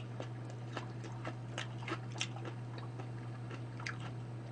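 Mouth chewing chewy stir-fried rice cakes (oil tteokbokki) close to the microphone: soft, irregular wet clicks and smacks over a steady low hum.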